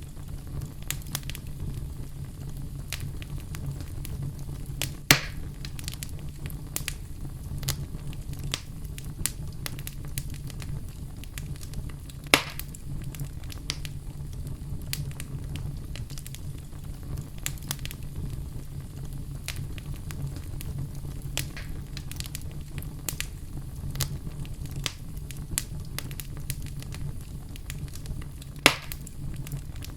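Wood campfire crackling steadily over a low rumble, with many small snaps and three louder pops: about five seconds in, about twelve seconds in, and near the end.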